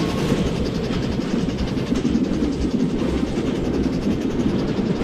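A train running at speed along the track, with a steady, loud rumble of its wheels on the rails.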